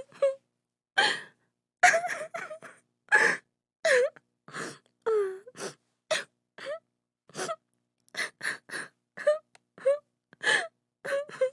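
A woman crying: short broken sobs and gasping breaths, one or two a second, some with a wavering, sliding pitch, with brief silences between.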